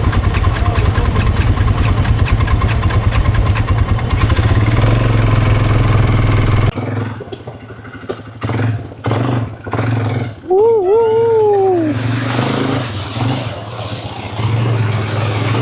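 Quad bike engine running under way, loud and pulsing. About seven seconds in it changes abruptly to a quieter, choppier engine sound. A short voice call bends up and down partway through.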